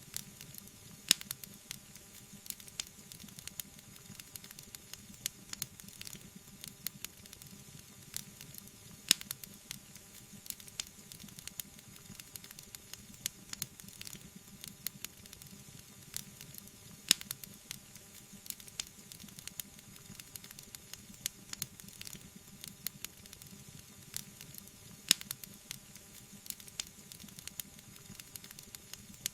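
Wood fire crackling, with frequent small snaps and pops over a soft steady hiss; four louder pops stand out, about eight seconds apart.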